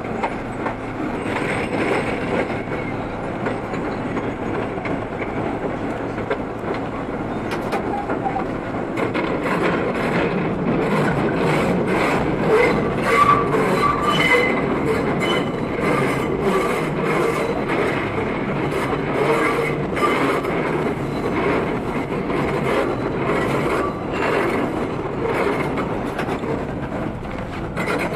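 R32 subway train running, heard from the front of the car. Its wheels click regularly over rail joints, the clicks coming thicker from about a third of the way in. Brief wheel squeals sound near the middle.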